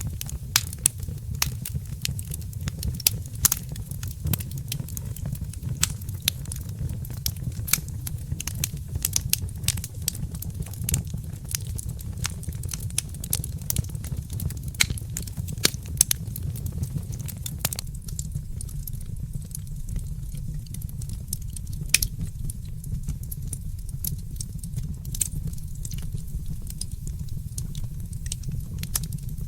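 Fireplace fire burning with a steady low rumble and frequent sharp crackles and pops, the pops thinning out after about two-thirds of the way through.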